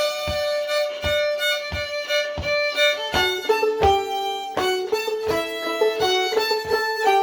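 Old-time fiddle and clawhammer banjo in double-D tuning playing a traditional tune together at a slow, simple pace. The fiddle holds long bowed notes over evenly spaced banjo strokes, and the notes change more quickly about three seconds in.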